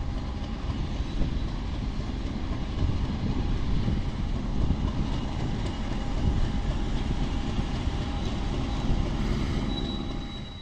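Train running along the line: a steady rumble of wheels on rail, with a faint high wheel squeal over it.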